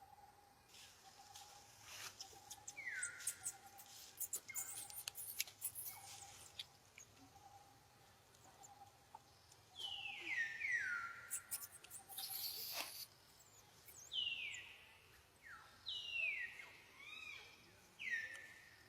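Monkey's high-pitched squeals, a string of short calls that each slide quickly downward in pitch, coming in a cluster near the middle and again toward the end. A faint pulsing tone repeats steadily underneath, with scattered light clicks early on.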